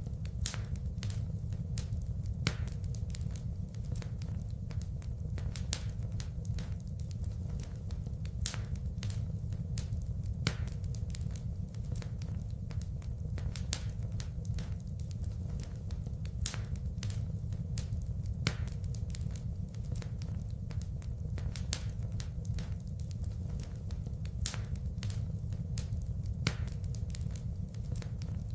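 Wood fire burning in a fireplace: a steady low rumble of flames with continual crackling and sharp pops of burning wood, a louder pop every couple of seconds.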